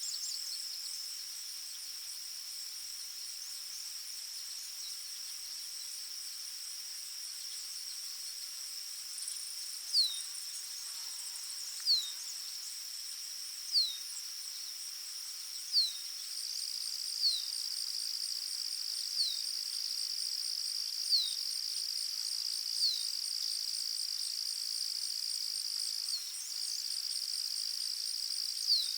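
Forest ambience: a steady high-pitched insect trill, with a second, faster pulsing insect buzz above it. From about a third of the way in, a bird's short falling whistle repeats about every two seconds over the trill.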